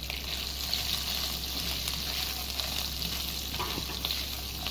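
Boiled potato cubes sizzling and crackling in hot oil with tempered seeds in a non-stick frying pan, stirred with a spatula that adds light scraping clicks.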